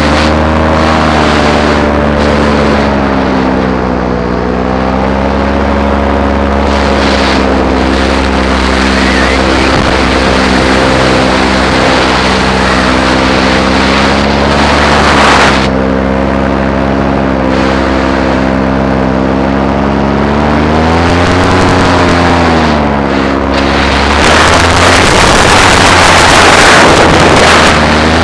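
Paramotor engine and propeller running steadily, the pitch dipping and coming back up twice as the throttle is eased and reopened. Wind buffets the microphone in gusts, heaviest near the end.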